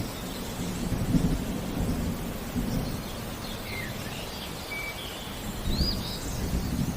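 Rain with low rumbling thunder, swelling briefly about a second in and again near the end, while birds give short chirps and whistled calls.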